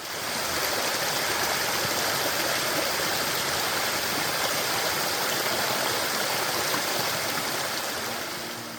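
Steady rushing water of a stream, fading down near the end.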